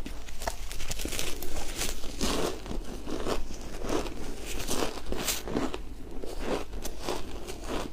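Close-up chewing of shaved ice, the ice crunching and crackling between the teeth in repeated bites, about two a second.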